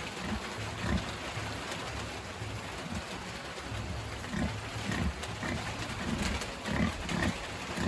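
Sow giving short low grunts over and over, coming more often in the second half, with a steady hiss behind.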